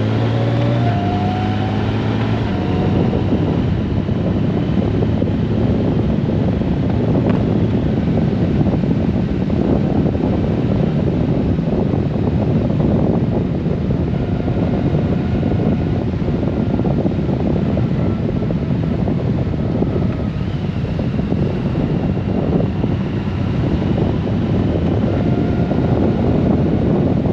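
Steady wind rush and road noise of a Honda Gold Wing motorcycle riding at speed, with the engine's hum underneath. In the first two seconds the engine note rises as it accelerates.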